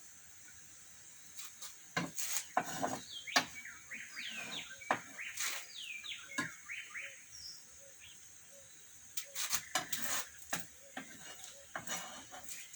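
Scattered knocks and clatter of objects being handled, with a bird chirping a quick run of calls from about three to seven seconds in, over a steady high hiss.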